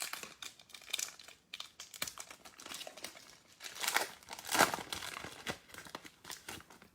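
Foil wrapper of an Optic basketball card pack crinkling and tearing as it is opened by hand, in irregular crackles that are loudest a little past the middle.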